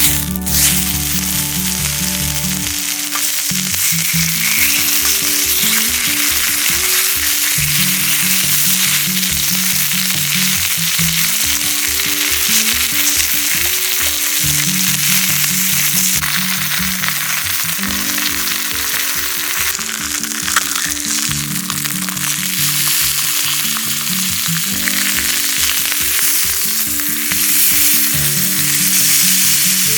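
Steady crackling, sizzling hiss from a small camp wood stove in use, over background music with a pulsing bass line.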